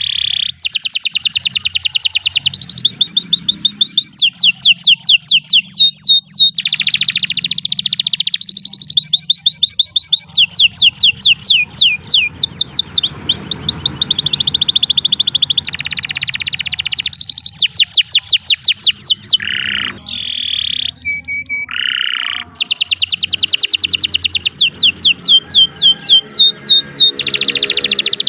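Canary singing a long, continuous song of rapid trills: fast runs of repeated high notes, in phrases that switch every second or two, with a brief thinner stretch of single held notes about two-thirds of the way through.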